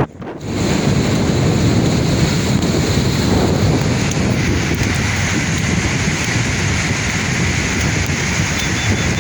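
Sea waves washing and surging, with wind buffeting the microphone. The sound cuts out sharply for a moment right at the start, then comes back.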